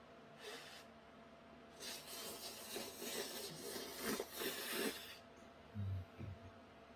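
Someone eating small-cup yukgaejang instant noodles close to the microphone: about three seconds of uneven, noisy slurping, then two low thuds near the end.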